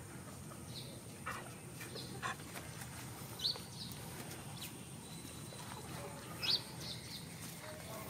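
Faint outdoor ambience with a few brief, high bird chirps spread through it, and a few soft scuffs.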